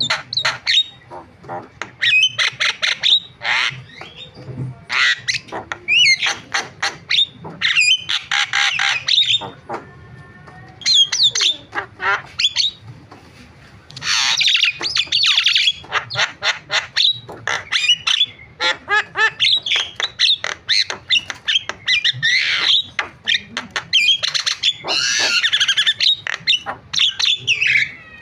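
Javan myna singing a varied run of harsh squawks, rattling chatter and whistled notes, in bursts of a few seconds with short pauses between them.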